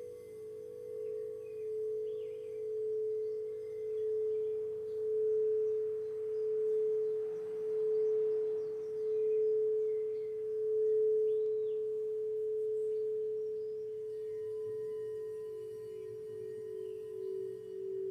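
Singing bowl ringing with one sustained, wavering tone that swells and fades about once a second. About two-thirds of the way through, a slightly lower bowl tone takes over with a quicker pulse. Faint bird chirps sound over it.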